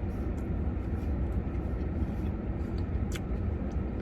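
Steady low rumble, like a vehicle idling, with a few faint clicks and one sharper click about three seconds in.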